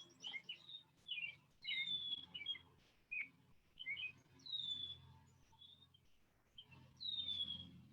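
Birdsong: a songbird repeats a short phrase about every two and a half seconds, each phrase opening with a falling whistle, with short chirps in between.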